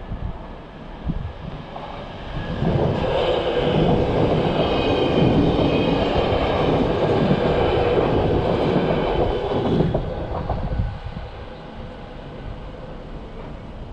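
Electric passenger train passing over a level crossing. The rumble and wheel clatter rise sharply about three seconds in and die away after about ten seconds, with a steady hum running under the pass.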